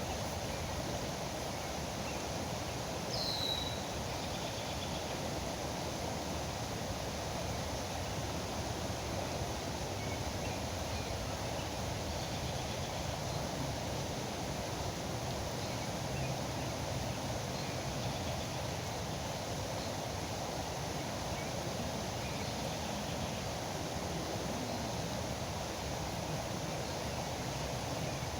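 Steady rush of river water flowing, an even noise without rhythm or pitch. A single short, falling bird chirp comes about three seconds in.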